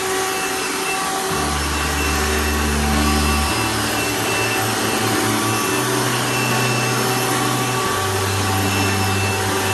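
A steady, loud rushing noise over background music whose low notes change about every two seconds.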